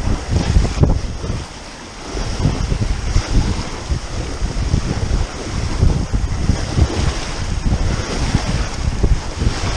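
Wind buffeting the microphone in gusts over the rush and splash of water along a sailboat's hull as it sails, easing briefly about a second and a half in.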